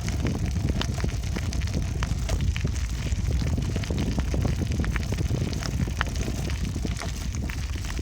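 Wind buffeting the microphone during a bicycle ride: a steady low rumble, with scattered small clicks and rattles from the moving bike.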